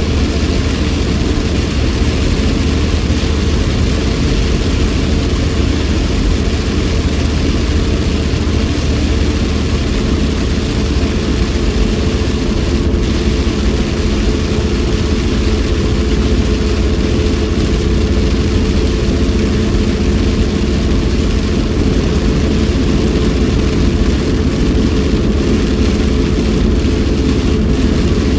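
Steady inside-the-car driving noise on a rain-soaked road: engine and tyre rumble with a constant hum and an even hiss of rain and road spray.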